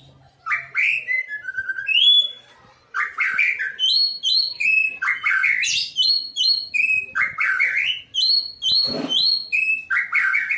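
White-rumped shama (murai batu) singing a fast, varied song of clear whistled notes mixed with harsh chattering phrases, with a short rasping note about nine seconds in.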